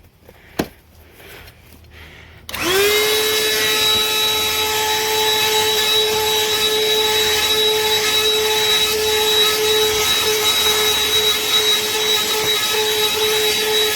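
BLACK+DECKER 20V Dustbuster cordless handheld vacuum switched on about two and a half seconds in, after a click. Its motor spins up quickly to a steady high whine with rushing suction noise and keeps running.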